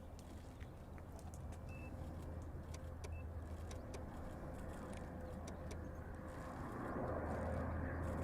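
Distant Rolls-Royce Dart turboprop engines of a YS-11 running, a steady low drone with a thin steady whine, growing louder about seven seconds in.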